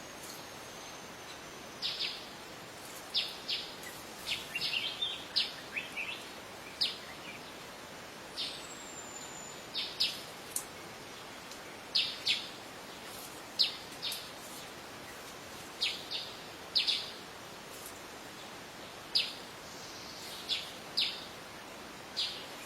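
Birds chirping: short, sharp calls come irregularly throughout, often two in quick succession, with a thin high whistle now and then, over a steady hiss.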